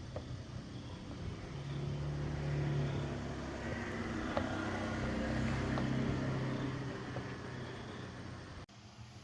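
A motor running with a steady low hum that grows louder for a few seconds, then fades, and cuts off abruptly near the end.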